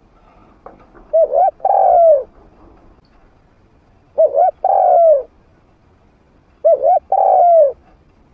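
A trained spotted dove with a medium-pitched voice cooing: three calls about two and a half seconds apart. Each call is two short coos and then a longer coo that falls in pitch. It is the kind of call played to draw wild spotted doves in to fight.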